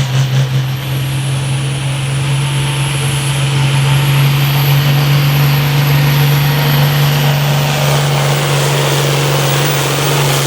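International 1466 tractor's turbocharged diesel engine held at full throttle under load while pulling the sled, a loud steady drone with a high turbo whine that dips a little and then rises again.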